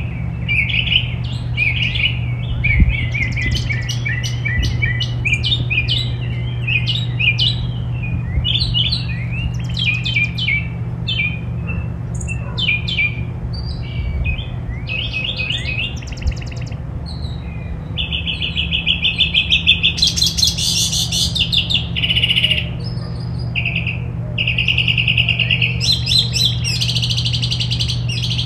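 Several small songbirds chirping and twittering at once, with quick overlapping calls and, in the second half, rapid trilling runs. A steady low hum sits beneath.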